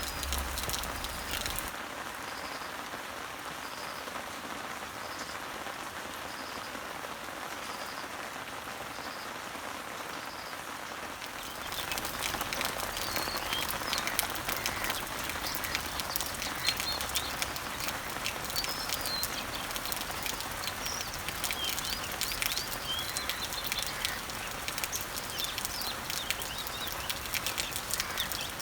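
Rain falling on garden leaves and trees, a steady patter of drops, with birds chirping in the background. A short high note repeats about once a second through the first third, then the rain grows louder about twelve seconds in and the drop clicks and chirps become denser.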